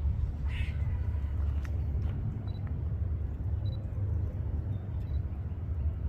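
Steady low rumble of a freight train, with a crow cawing once about half a second in.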